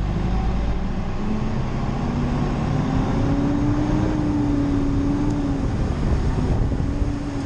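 Mack garbage truck's diesel engine running under load, heard from the cab. Its note climbs over the first few seconds as the truck pulls away, holds, then eases off slightly.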